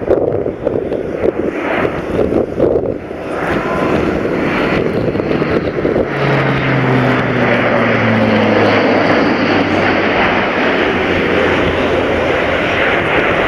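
Airbus A400M's four TP400 turboprop engines, with their large multi-bladed propellers, passing low in a flying display: a loud propeller roar that builds, and a low propeller drone that drops slowly in pitch from about six seconds in as the aircraft goes by.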